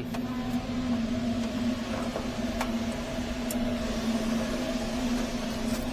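Steady machinery hum: a constant low drone with a fainter higher tone over a steady hiss, with a few faint ticks.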